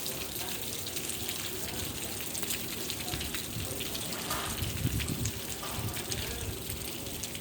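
Heavy rain falling steadily: a dense hiss of many drops striking surfaces, with a low rumble about halfway through.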